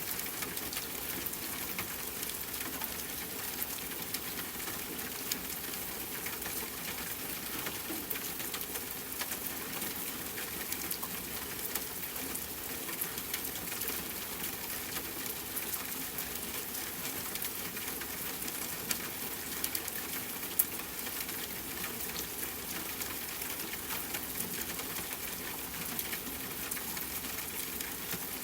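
Steady rain hiss mixed with a crackling campfire: scattered small crackles throughout and a few louder pops, the sharpest about two-thirds of the way through.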